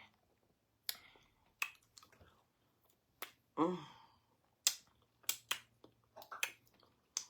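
Close-up eating sounds of someone chewing pounded yam with slimy ogbono soup: a string of separate wet clicks and smacks from the mouth. About halfway through comes one brief vocal sound.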